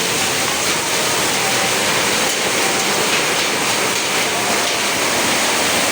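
Heavy downpour of rain and hail driven by strong wind: a loud, steady rushing noise with no breaks.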